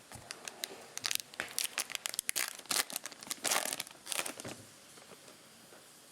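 Cellophane wrapper of a Topps Chrome cello pack being torn open and crinkled: a dense run of sharp crackles that dies down after about four and a half seconds.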